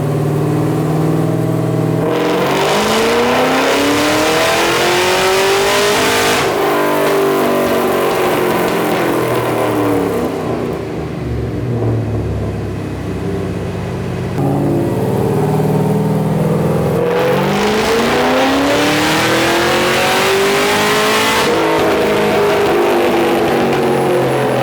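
Cadillac CTS-V's V8 with long-tube headers on a chassis dyno: it runs at a lower speed, then revs up in two wide-open-throttle pulls of about four seconds each. Each pull climbs steadily in pitch and drops off abruptly at the top as the throttle is closed.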